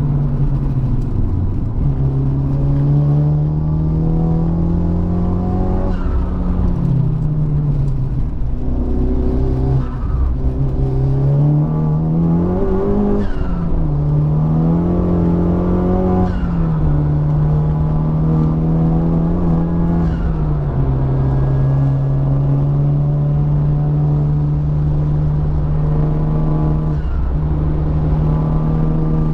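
Honda Civic Type R's turbocharged four-cylinder engine running at speed, its note rising and falling several times with throttle and gear changes. It is running with the blow-off valve's vacuum line popped off, which has set a P2261 check engine light.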